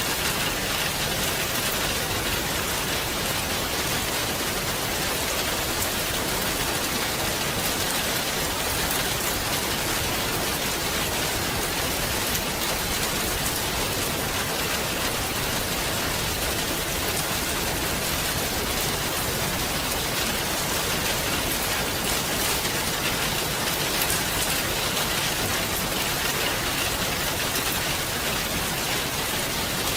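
Steady, even rain with a dense patter of drops, holding at one level throughout.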